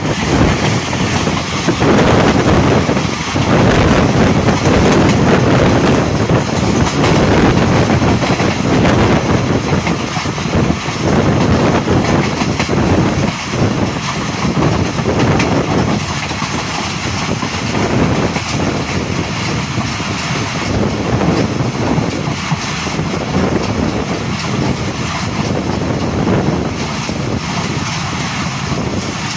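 Passenger coaches of a moving express train, heard from an open coach window: a loud, steady rush and rumble of the wheels running on the track.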